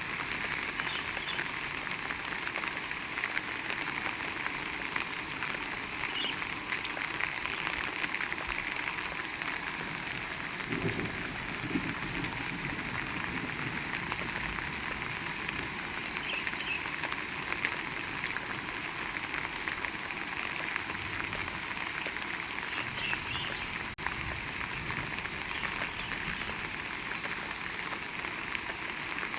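Heavy rain falling steadily, an even hiss of rain on the ground and surroundings.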